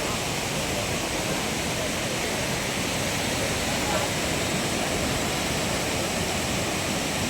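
Steady rush of water in full flow, a dense even hiss with no let-up, from mountain waterfalls and heavy rain.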